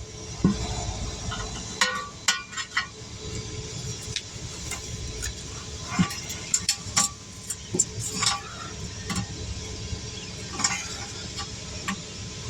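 Irregular metal clinks and knocks of tire tools working against the wheel rim as a tire is pried off the wheel by hand.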